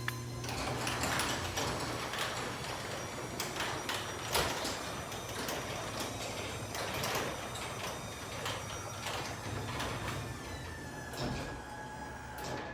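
Chamberlain B750C 3/4 HP belt-drive garage door opener running and moving the door, a steady motor hum with scattered clicks and rattles from the door travelling along its tracks.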